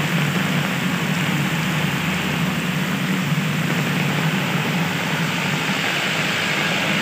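Heavy rain pouring steadily onto a road, with a truck's engine running as the truck draws near.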